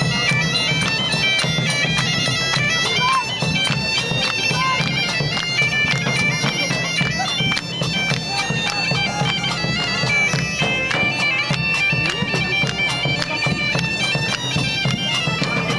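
Bagpipes playing a fast tune over a steady low drone.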